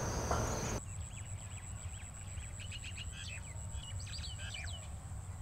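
Small birds chirping outdoors: a quick run of short, rising and falling chirps over a steady thin high-pitched whine and a low background rumble.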